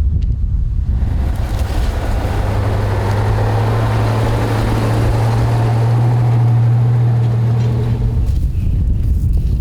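A motor vehicle's engine running close by with a steady low hum. Road or engine noise swells in about a second in and fades out near the end, over wind buffeting the microphone.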